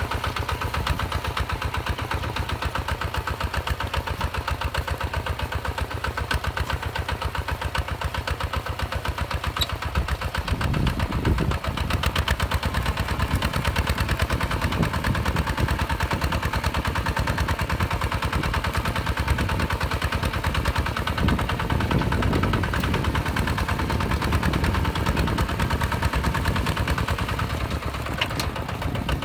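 Hinota HG Gold 155 DI single-cylinder diesel engine running steadily with a rapid, even knock of firing strokes. About ten seconds in, its low rumble turns rougher and heavier.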